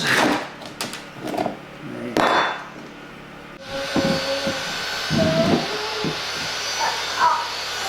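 A few knocks and handling sounds, then a power tool's motor switches on abruptly about three and a half seconds in and runs steadily.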